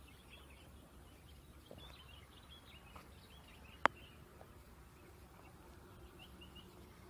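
Small birds chirping faintly and irregularly over a low outdoor rumble, with one sharp click about four seconds in.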